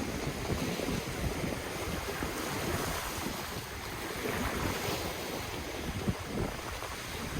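Ocean waves washing and breaking on the shore, with wind buffeting the microphone in the low end.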